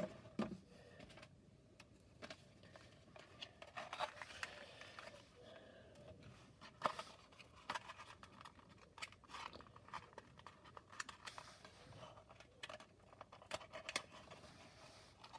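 Faint handling noises of cardboard and plastic playset parts: scattered light clicks, taps and rustles as pieces are fitted together.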